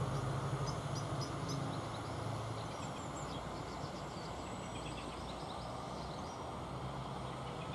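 Diesel multiple unit running away down the line, its engine hum fading over the first couple of seconds. Faint steady background noise with small birds chirping follows.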